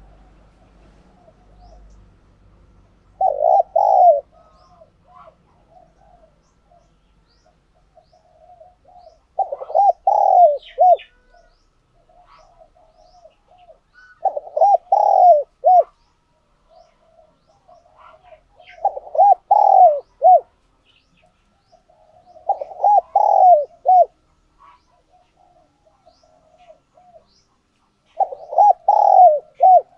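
Tame spotted dove cooing: six loud phrases of several quick, rolling coos, about one every five seconds, with softer coos between them.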